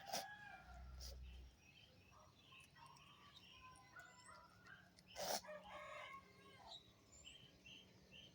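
Faint rooster crowing with small birds chirping, and two sharp knocks, one just after the start and another about five seconds in.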